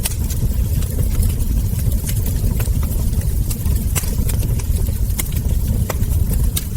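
Wood fire burning with a steady low rumble and frequent irregular crackles and sharp ember pops.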